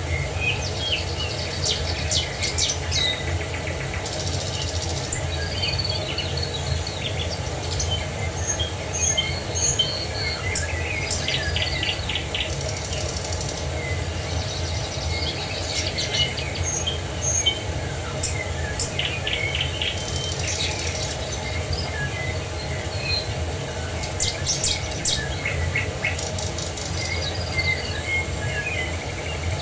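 Several birds chirping and trilling in quick, overlapping calls over the steady rush of a waterfall.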